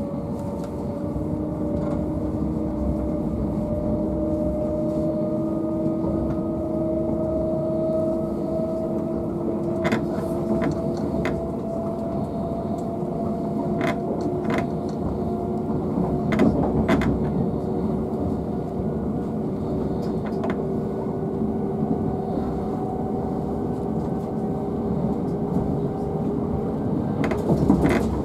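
Cabin sound of a Southern Class 377 Electrostar electric multiple unit under way: a steady rumble of wheels on rail with a traction whine slowly rising in pitch. Sharp clicks and knocks come about ten seconds in, around the middle, and again near the end.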